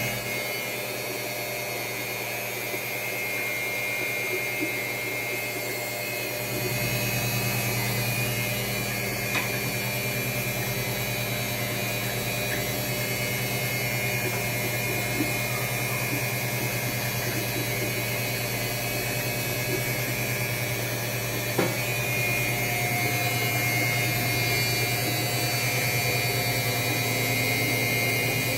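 Washing machine running with a steady motor hum that gets louder about six and a half seconds in, with a few faint clicks over it.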